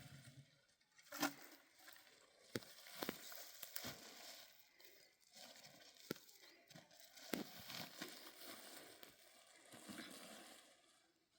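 Faint rustling and crinkling, broken by a dozen or so sharp clicks and taps at uneven intervals.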